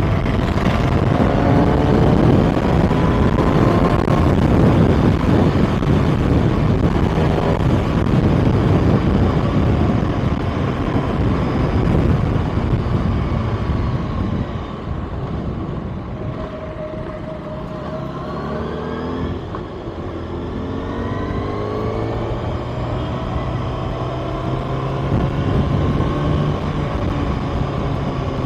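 Kawasaki ZX-6R inline-four engine on the move, rising in pitch several times as it pulls through the gears, easing off about halfway through and then building again, under steady wind rush.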